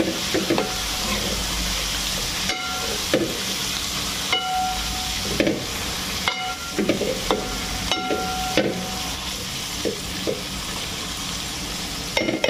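Raw chicken pieces sizzling in hot oil and ghee in a large aluminium handi while a steel ladle stirs them. The ladle knocks against the pot about once a second, each clink ringing briefly over the steady frying hiss.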